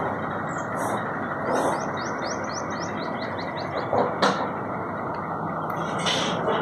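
A bird calling a quick run of short, falling high notes, about five a second, over steady outdoor background noise. A single sharp knock about four seconds in.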